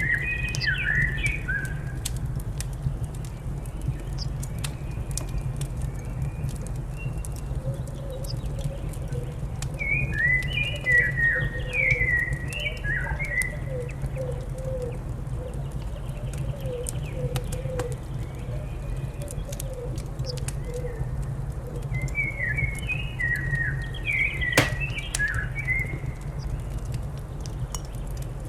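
Fireplace fire crackling with scattered sharp pops over a steady low rumble. A bird sings three short bursts of quick, sliding whistled notes about ten seconds apart, and a lower warbling call runs through the middle.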